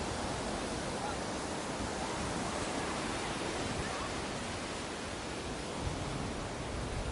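Ocean surf washing onto a beach: a continuous, steady rush of breaking waves.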